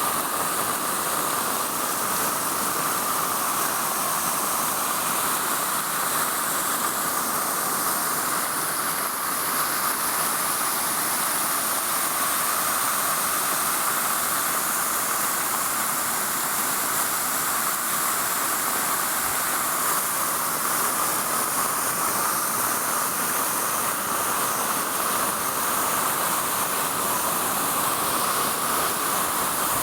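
Heavy rain falling steadily, a continuous even hiss that does not let up.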